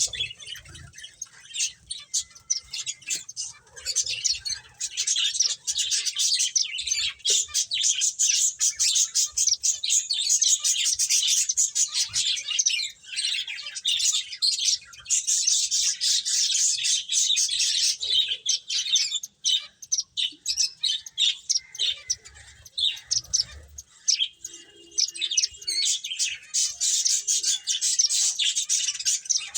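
Pet finches chirping, many short, high chirps overlapping in a dense, nearly continuous chatter with only brief pauses.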